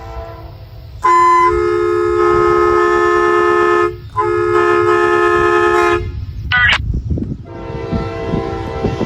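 Locomotive air horn on the lead unit of an approaching Norfolk Southern freight sounding two long blasts, a chord of several steady tones. A briefer, fainter blast follows near the end, over the low rumble of the train.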